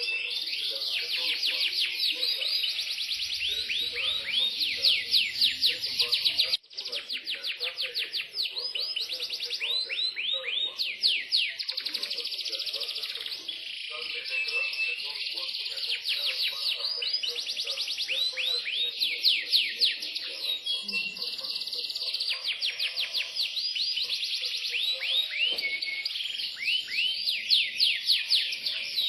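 Yorkshire canary singing continuously in long, fast trills and rolls of rapidly repeated high notes, breaking off for an instant about six and a half seconds in.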